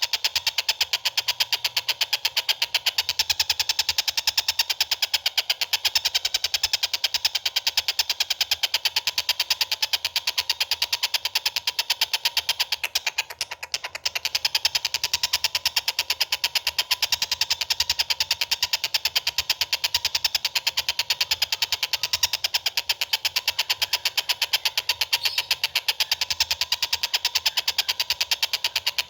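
A small songbird's fast, continuous rattling chatter, a dense run of rapid clicks that keeps going, faltering briefly about 13 seconds in.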